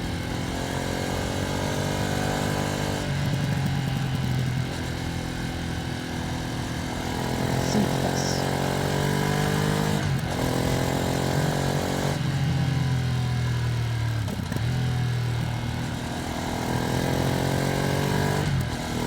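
Ducati Streetfighter V2S V-twin engine pulling on a gentle, run-in throttle during a ride. Its pitch climbs steadily, then drops back at about five gear changes. There is wind noise on the microphone.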